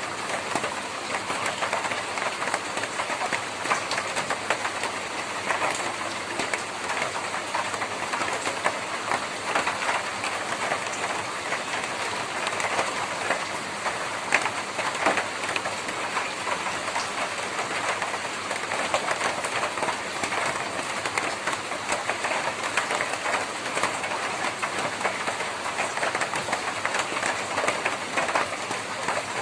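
Rain drumming on a tin roof: a dense, steady patter of countless drop impacts on sheet metal.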